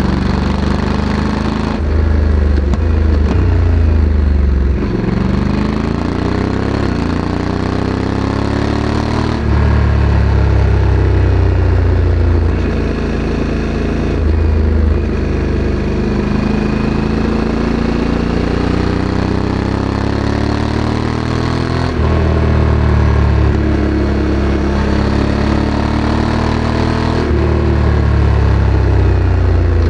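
Honda Africa Twin CRF1100's 1084 cc parallel-twin engine running through its factory exhaust while the bike is ridden, the revs rising and falling. The note jumps abruptly several times, as the dual-clutch gearbox changes gear.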